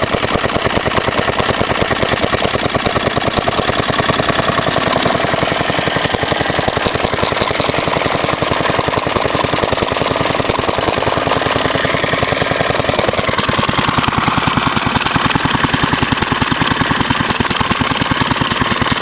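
Fairbanks Morse Z style D single-cylinder engine running steadily, with a rapid, even exhaust beat.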